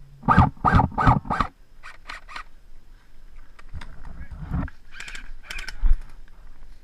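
Airsoft gun firing four shots in quick succession, about a third of a second apart, followed by a few fainter shots.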